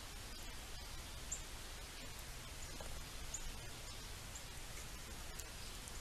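Steady outdoor background hiss with faint, short, high chirps every second or so, typical of small birds calling, and a few soft clicks.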